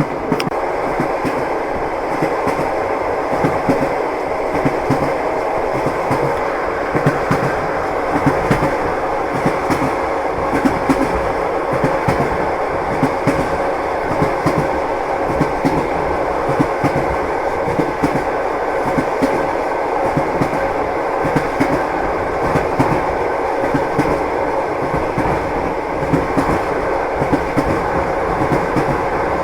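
Train wheels clattering over rail joints: a steady rumble of a moving railway carriage with repeated clickety-clack knocks throughout.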